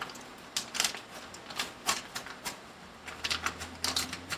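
Seasoning shaker shaken over a pot of rice: quick irregular rattles and taps, a few a second.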